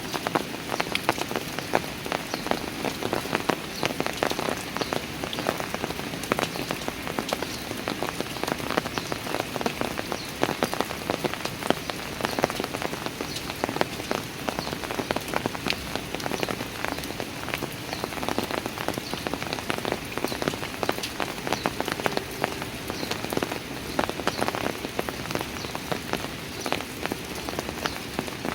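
Steady rain falling on stone steps, a dense patter of many individual drops hitting hard surfaces over an even hiss of rain.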